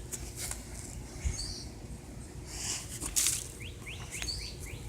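Loose soil being scraped and pushed around by hand in a few short rustling strokes, the strongest about three seconds in. A small bird chirps in a quick series of short rising notes near the end.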